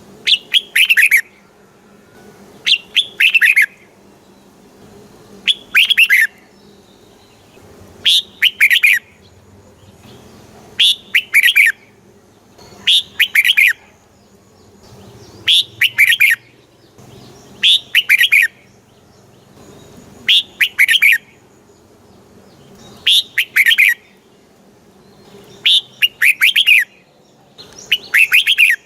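Red-whiskered bulbul singing: a short phrase of a few quick notes falling in pitch, repeated about a dozen times, every two to three seconds.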